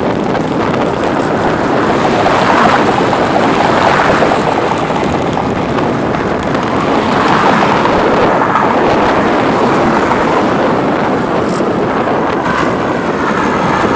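Steady loud rush of wind buffeting the microphone of a camera on a bicycle coasting fast downhill.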